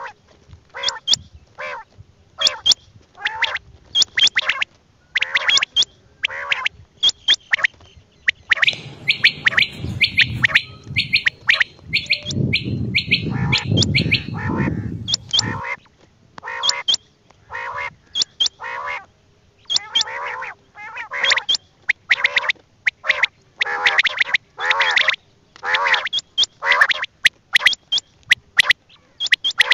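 Quail calling over and over in short, sharp calls, about one or two a second. From about nine to fifteen seconds in, a rough rumbling noise runs under the calls.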